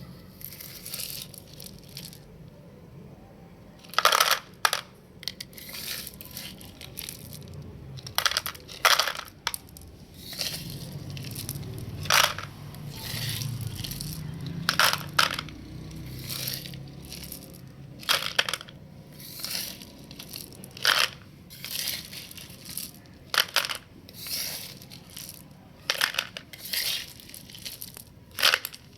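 Small gravel being loaded into a plastic toy truck, rattling and crunching in irregular bursts as each load pours in.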